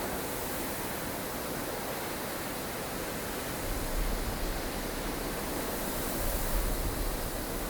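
Strong wind of a blustery snowstorm blowing steadily, with low rumbling gusts swelling about halfway through and again near the end.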